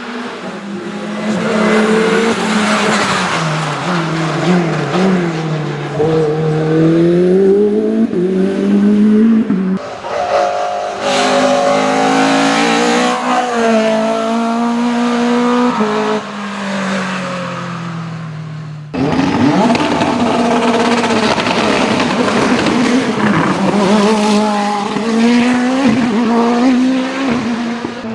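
Racing car engines at full throttle on a hill climb, the pitch climbing and dropping back again and again as the cars rev up and change gear. The sound cuts abruptly to another car's run about ten seconds in and again about nineteen seconds in.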